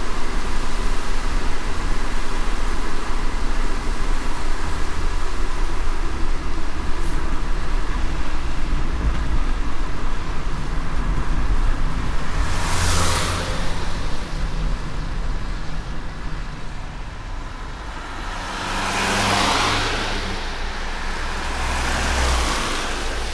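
Steady road and tyre noise of a car driving on a wet road in light rain, with a low rumble under it. Three swelling whooshes rise and fade, one about halfway through and two near the end, like vehicles passing on the wet road.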